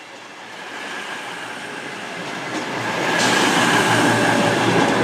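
Class 221 Super Voyager diesel-electric train arriving along the platform, growing louder, with a steady low hum coming in about three seconds in.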